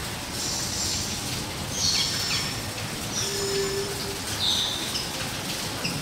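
Small birds chirping in short, high calls about once a second, over a steady background hiss. A brief low hum sounds a little past the middle.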